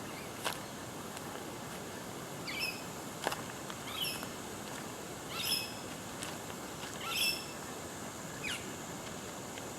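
Birds calling in bushland: short high chirps with quick downward sweeps, repeated every second or so, over a steady outdoor background, with a couple of sharp clicks early on.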